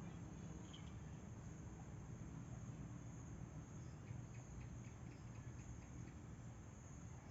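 Insects trilling steadily at a high pitch, faint, over a low rumble, with a short run of soft chirps about four to five seconds in.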